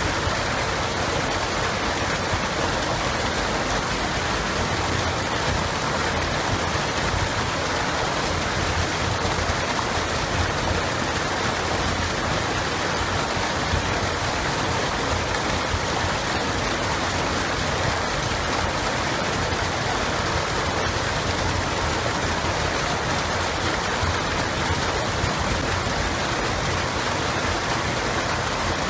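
Running water of a stream or river, a steady, even rushing with no breaks.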